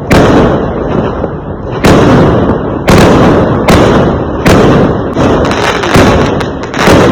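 Fireworks going off: a string of loud bangs at irregular intervals, about eight in seven seconds, each followed by a fading rumble.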